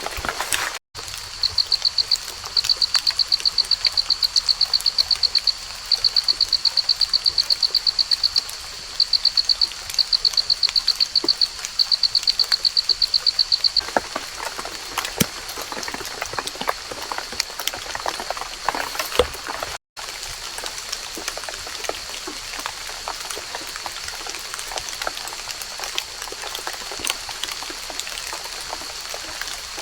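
A small animal calling with a rapid, high-pitched pulsed trill in bursts for about twelve seconds, then a fainter steady high tone. Raindrops drip and patter on fallen leaves throughout.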